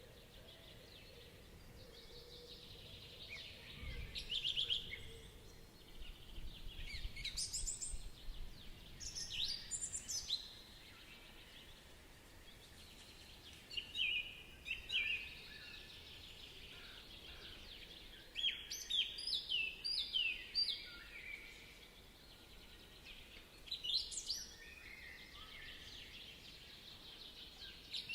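Songbirds singing in short phrases of quick, high notes, a new phrase every few seconds, with quiet outdoor background between them.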